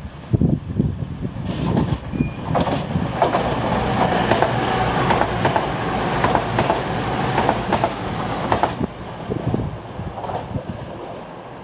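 Train passing on the main line: a dense rush with wheels clicking over the rail joints, building a couple of seconds in and dropping away after about eight seconds. Wind rumbles on the microphone at the start and end.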